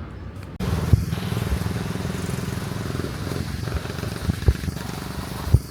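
Longtail boat engine running steadily, cutting in abruptly about half a second in, with a few low thumps over it.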